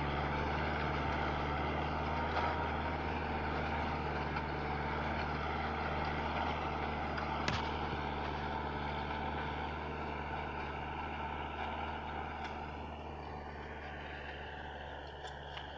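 Kubota MU4501 tractor's four-cylinder diesel engine running steadily, growing gradually quieter over the last few seconds. A single sharp click sounds about halfway through.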